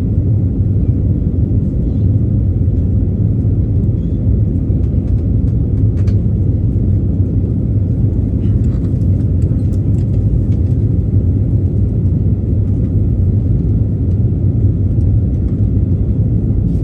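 Steady low rumble of a passenger jet's engines and airflow heard inside the cabin during takeoff, with a few faint clicks and rattles.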